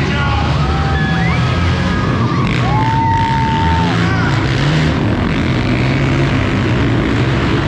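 Monster truck engine running loud and steady, with a deep low drone, and a brief higher held tone near the middle.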